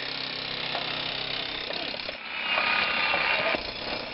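Demolition machinery: an engine running steadily under mechanical rattling and clatter, which grows louder about halfway through.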